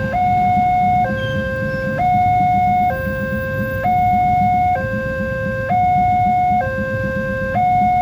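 Level crossing warning alarm sounding a two-tone high-low signal that switches pitch about once a second, over a low rumbling noise.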